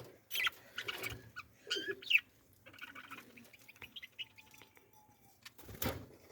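Birds chirping in short, quick calls, the strongest about two seconds in, then fainter, scattered chirps.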